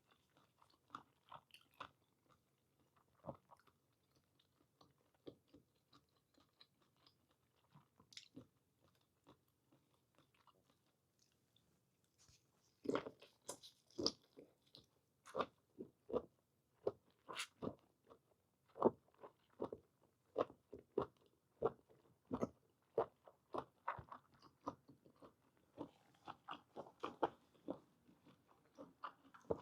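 A person chewing and biting boiled squid close to the microphone: a few faint mouth clicks at first, then steady, louder chewing from about halfway through.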